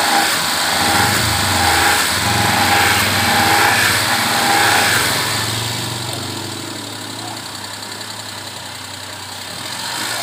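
Suzuki Alto's small three-cylinder petrol engine idling steadily while its rusty cooling system is flushed with water. The sound is louder, with extra hiss, for about the first five seconds, then eases.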